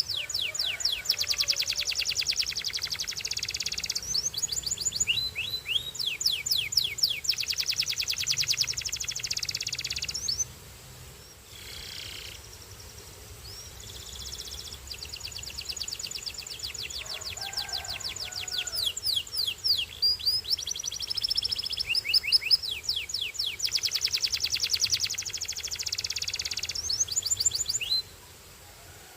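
Canary singing: long phrases of fast trills, each made of rapidly repeated sweeping high notes, with a brief lull about ten seconds in and the song dropping away near the end.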